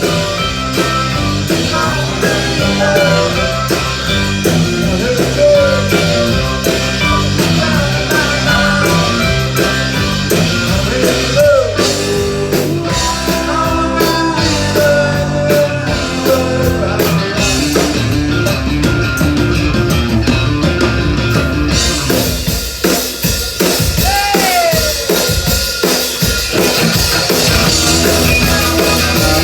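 Live rock band playing an instrumental passage with no singing: drum kit keeping a steady beat under guitar, with sliding, bent notes. About 22 seconds in, the cymbals open up and the sound gets brighter.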